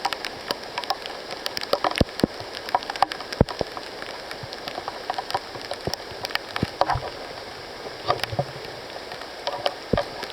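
Rain falling on rainforest foliage: a steady hiss with many irregular, sharp drop ticks close by, and a couple of low thuds about two-thirds of the way through.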